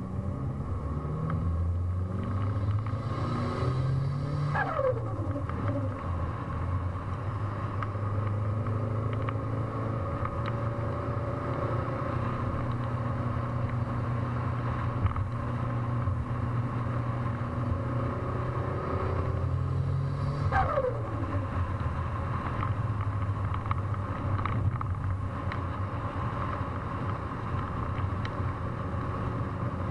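Mitsubishi Lancer Evolution VIII MR's turbocharged four-cylinder engine running, revved up twice; each time the throttle closes, a high whistle drops quickly in pitch as the turbo spools down.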